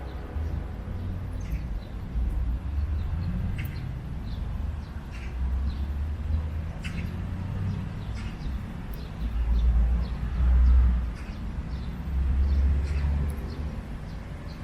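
Birds chirping, short scattered calls, over a low rumble that swells and fades, with its strongest surge about ten seconds in.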